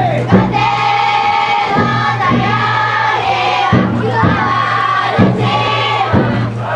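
Festival chanting from a large group of futon daiko float bearers singing in unison, with strokes of the float's taiko drum about every second and a half.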